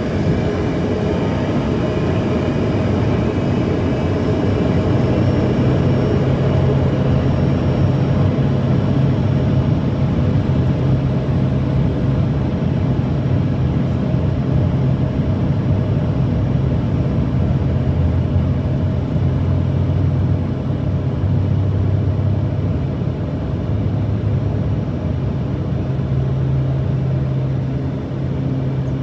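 Car driving at steady speed: engine hum with a constant road and wind noise.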